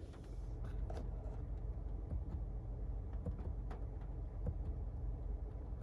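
Faint steady low hum with a few soft scattered clicks.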